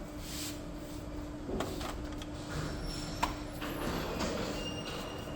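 Epson L3256 inkjet printer starting up on first power-on after a print-head replacement: its mechanism makes short sliding whirs and a click as it initialises, over a steady low hum.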